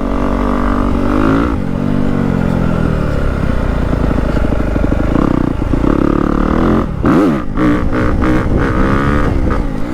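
Yamaha WR250F four-stroke single-cylinder dirt bike engine, breathing through a new slip-on exhaust, revving up and down as the bike is ridden. It gives a quick sharp rev about seven seconds in.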